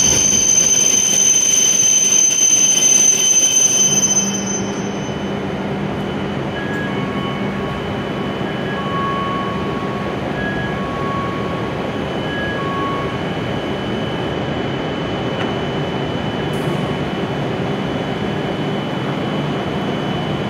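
A W7-series Shinkansen train comes to a stop with a high whine and squeal that cuts off about four seconds in. The stopped train then hums steadily, with a few short electronic tones sounding in the middle.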